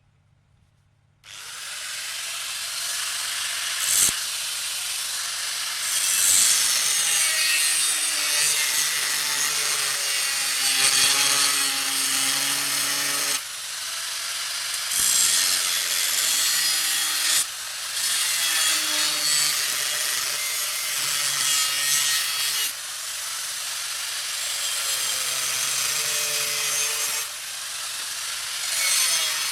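Hand-held electric power tool grinding or abrading the metal workpiece. It starts suddenly about a second in and runs on with a motor whine whose pitch shifts under load, broken into several passes of changing loudness.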